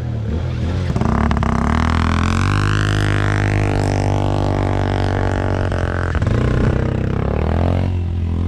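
ATV engines running with a steady low drone, their pitch rising and falling with the throttle.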